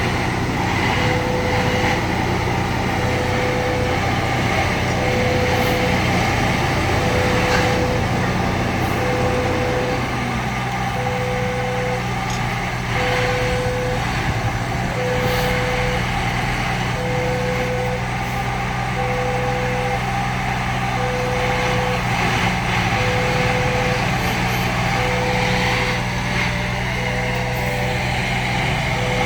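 Diesel engine of a rail maintenance machine running steadily while its warning beeper sounds over and over, each beep about a second long with a second's gap.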